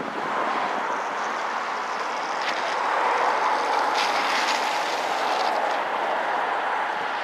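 Electric motor of an RC model airplane in flight, a steady whine that gets louder in the middle as it passes, over wind noise on the microphone.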